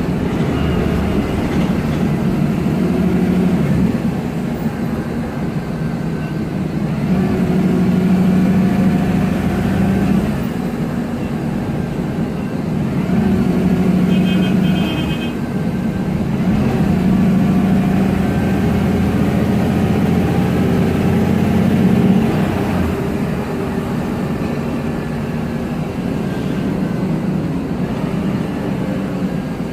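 MAN Lion's Classic city bus driving, its turbocharged CNG engine (MAN E2876) rising and falling in pitch in repeated swells as the ZF Ecomat six-speed automatic gearbox works through the gears. A short high electronic beeping comes about halfway through.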